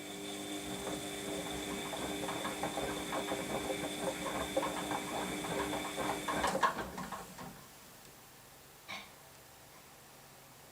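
Washing machine in its wash cycle: the motor hums as the drum turns, with wet laundry and water sloshing irregularly. The drum stops with a click about two-thirds of the way in, then pauses, with one small knock near the end.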